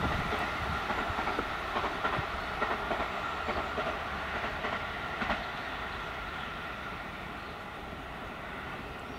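A JR 285-series Sunrise Seto/Izumo sleeper electric train running on rails and moving away. Its wheels clack over the rail joints now and then, and the rumble fades steadily.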